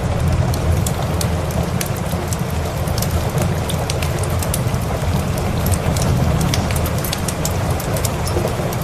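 Steady rain blended with a wood fire crackling: a constant low, dense rumble of rain with frequent sharp pops scattered through it.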